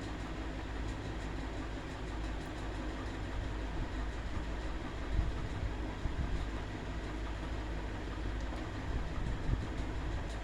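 Electric table fan running: a steady low rumble with an even motor hum.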